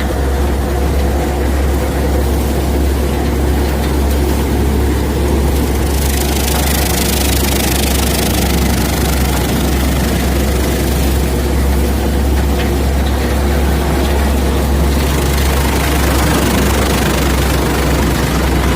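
Eicher tractor's diesel engine running steadily under load, driving a Manku thresher threshing mustard, with a deep continuous drone. A louder rushing hiss from the threshing joins from about six seconds in until about fifteen seconds.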